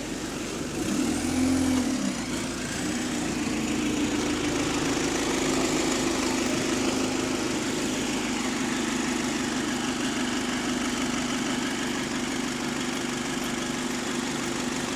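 A bus's diesel engine running steadily with a low droning hum, louder for a moment about a second in.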